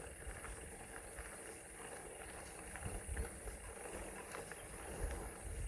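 Polygon mountain bike rolling over a dry dirt trail: faint tyre noise on loose ground with scattered small clicks and rattles, and a few low thumps about three seconds in and near the end.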